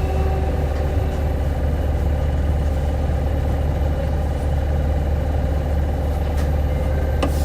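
Hino 2SG-HL2ANBP city bus engine running steadily at a low, even hum, heard from inside the passenger cabin. A brief click near the end.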